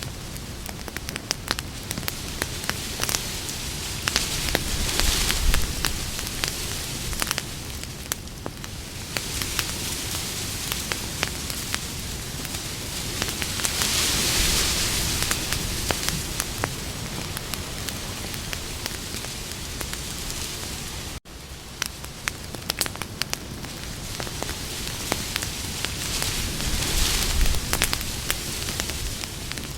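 Campfire burning, with steady crackling and sharp pops from the burning wood and hiss that swells louder now and then. About two-thirds of the way in, the sound cuts out for a split second.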